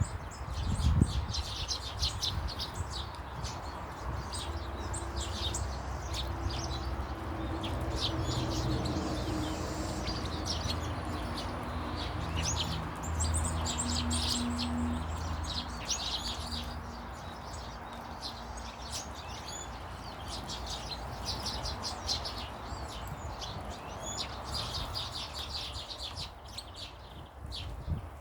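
Small garden birds chirping and twittering, many short high calls repeating throughout. Underneath runs a low droning hum, strongest in the middle, and there is a low thump about a second in.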